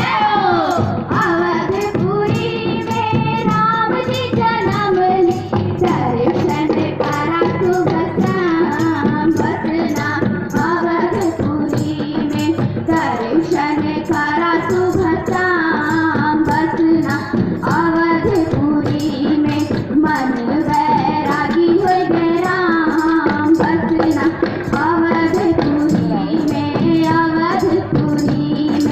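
A song sung by children's voices over a steady drone note, with a steady beat of light percussion.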